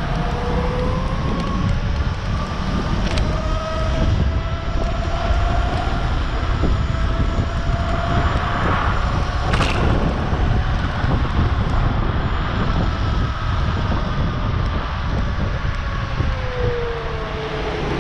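Vehicle motor whine climbing slowly in pitch as it speeds up, holding, then falling away near the end as it slows, over heavy wind rumble on the microphone. A single sharp click about halfway through.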